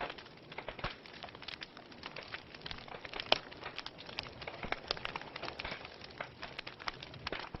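Wood fire in a fireplace crackling, with irregular pops and snaps over a soft hiss. One sharper pop comes a little over three seconds in.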